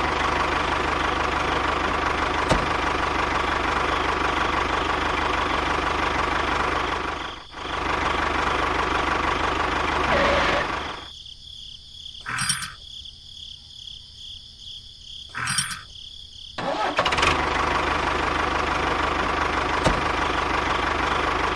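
A small motor, likely driving a DIY model tractor, running steadily. It drops out briefly about a third of the way in. It then stops for several seconds, with two short clicks during the pause, and starts running again.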